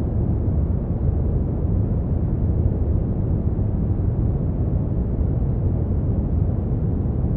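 Brown noise: a steady, deep rushing hiss, strongest in the low end and with no highs, unchanging throughout.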